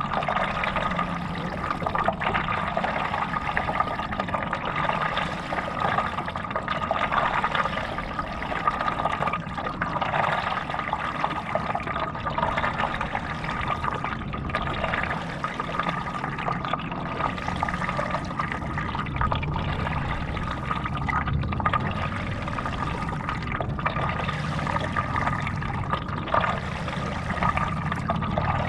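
Stand-up paddleboard being paddled: water splashing and rushing from the paddle strokes, swelling and easing about every two seconds.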